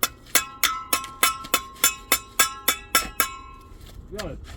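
A piece of metal struck about a dozen times in quick, even succession, about three strikes a second. Each strike rings with a clear, bell-like pitch, and the strikes stop a little after three seconds in.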